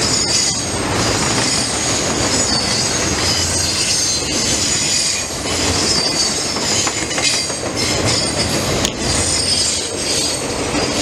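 CSX freight train cars rolling past close by: a steady rumble and rattle of wheels on the rails, with high-pitched wheel squeals coming and going.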